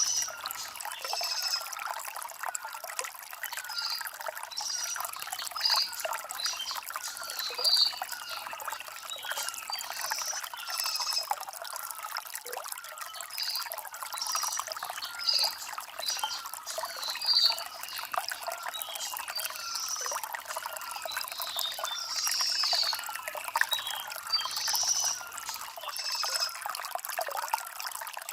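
A shallow stream trickling and bubbling over stones, with birds chirping in short, high calls repeated every second or so.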